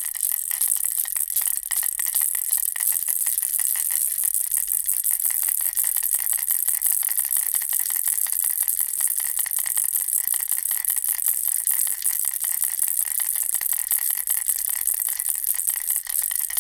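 Bear-and-ball baby rattle shaken without a break, a dense, fast, bright clatter of rattling beads.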